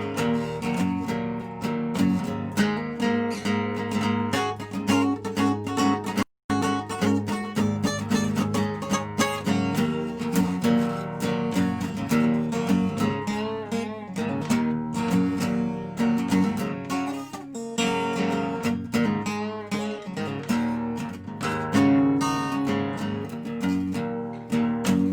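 Dobro resonator guitar playing an instrumental blues break: a busy run of plucked notes and riffs. The sound cuts out completely for an instant about six seconds in.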